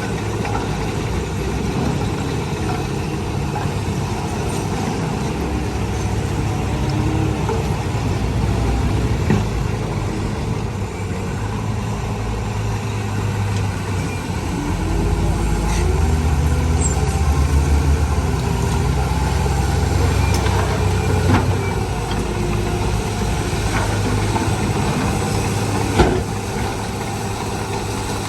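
Diesel engine of a Komatsu D41E bulldozer running, pulling harder for several seconds midway through. Scattered clanks, and one sharp knock near the end.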